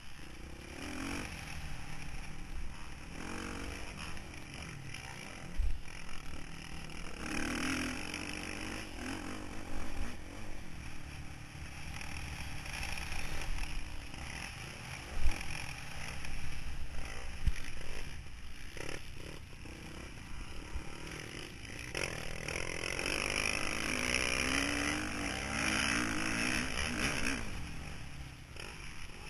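Motocross bike's engine revving up and falling back again and again as it is ridden round a dirt track, heard from a camera mounted on the bike, with heavy low wind rumble on the microphone and a few sharp thumps from bumps, the strongest about 6 and 15 seconds in.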